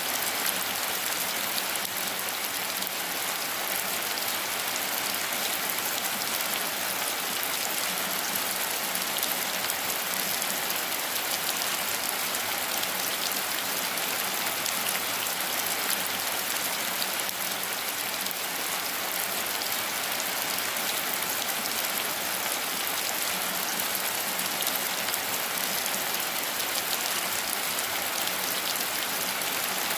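Steady, even rain falling on foliage and ground, a dense hiss of countless drops with faint individual drop ticks.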